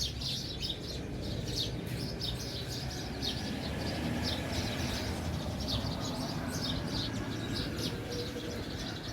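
Small birds chirping, a quick run of short high calls repeating several times a second, over a steady low rumble.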